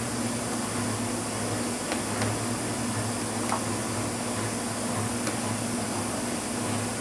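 Steady hum and hiss of a fan-like machine running, with a few faint light clicks.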